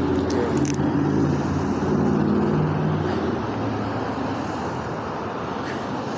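Car on the road: steady engine and road noise, with a low drone that fades after about three seconds.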